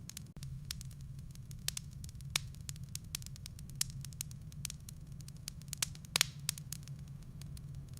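Firewood burning in a fireplace, crackling with irregular sharp pops and snaps over a steady low hum, with a louder cluster of pops about six seconds in.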